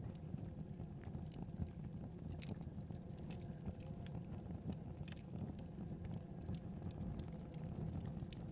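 Wood fire burning: a steady low rumble of the flames with irregular sharp crackles and pops from the burning logs.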